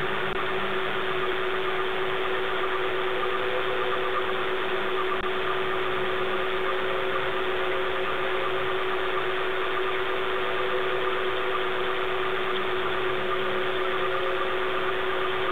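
A car engine idling steadily, heard through a doorbell camera's microphone with a constant hiss and a steady hum.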